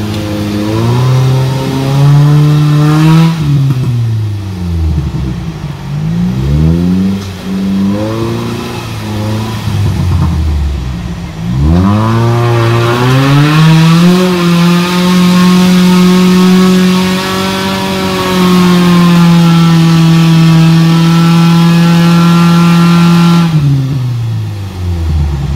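Off-road 4x4's engine revving hard under load while climbing a muddy rutted track. The revs rise and fall several times in quick succession in the first half, then climb and are held high for about ten seconds before dropping off near the end.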